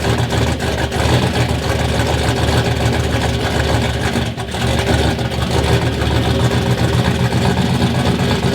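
Ford Ranger truck's freshly rebuilt engine, with a whole new top end, idling steadily on its first run after finally starting.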